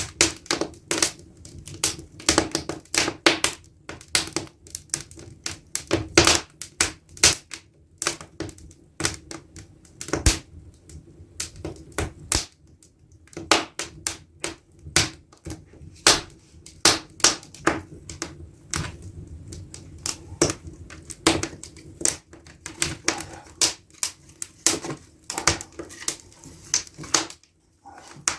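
Firewood crackling in an open fireplace just after lighting: irregular sharp snaps, several a second, some much louder than others.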